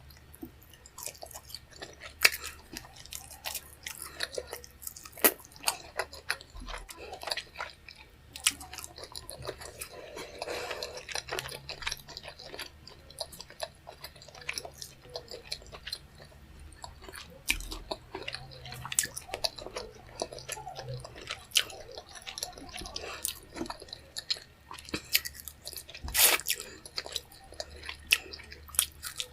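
A person chewing food close to the microphone: wet chewing and mouth clicks in an irregular run, with a few louder sharp clicks, the loudest near the end.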